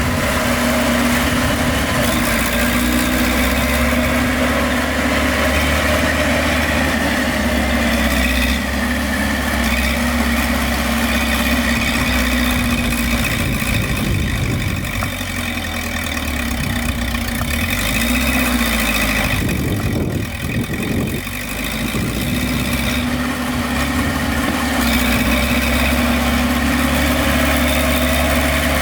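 Heavy diesel earthmoving machinery engine running steadily, with a short dip and change in its sound about twenty seconds in.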